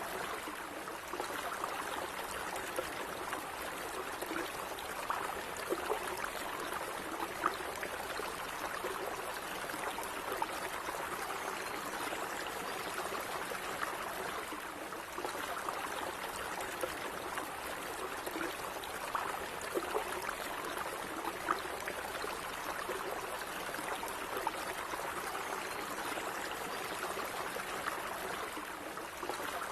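Calm running water flowing steadily, a continuous babble dotted with small splashes and gurgles.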